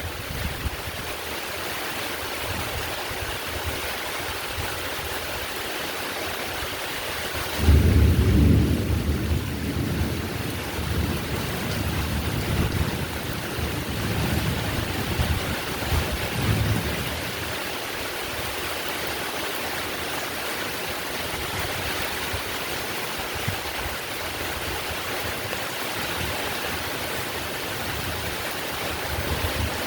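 Heavy, steady rain. About a quarter of the way in, a roll of thunder breaks in suddenly with a deep rumble that fades away over the next ten seconds or so.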